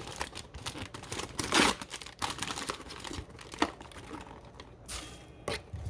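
Paper microwave popcorn bag being handled and opened, crinkling and rustling in irregular crackles, loudest about a second and a half in.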